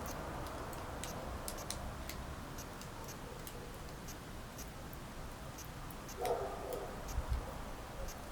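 Wood fire burning in a fireplace: sparse, irregular crackles and pops over a steady low rumble, with a brief louder burst of sound about six seconds in.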